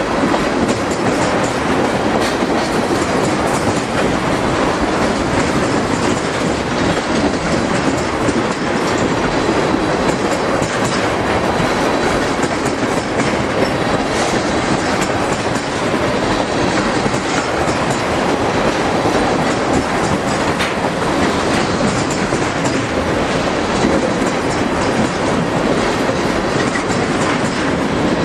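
Freight train cars rolling past: a steady, loud rush of steel wheels on the rails that carries on without a break.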